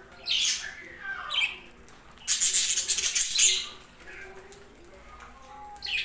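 Budgerigars chirping and squawking, with a louder rapid flurry of chatter and fluttering about two seconds in that lasts about a second.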